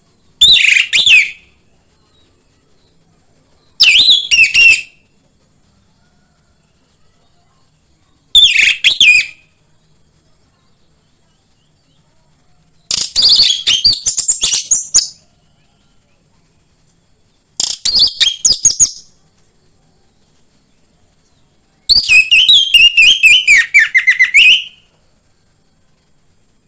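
Orange-headed thrush (anis merah) singing in six short bursts of quick, varied phrases, each one to three seconds long with pauses of two to three seconds between them. The burst near the end is the longest.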